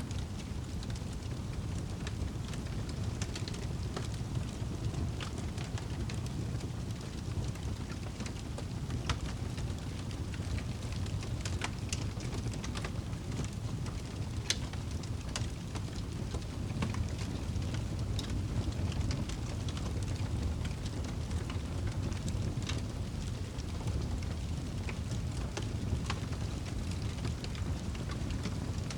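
Campfire crackling, with irregular sharp pops and snaps scattered over a steady low rumble.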